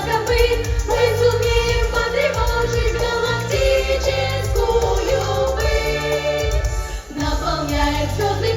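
A young vocal ensemble singing a pop song in chorus over a backing track with bass and a steady beat, pausing briefly about seven seconds in.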